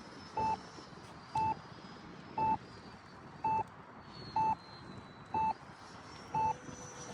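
Electronic beeper sounding a short, steady-pitched beep about once a second, over faint background hiss.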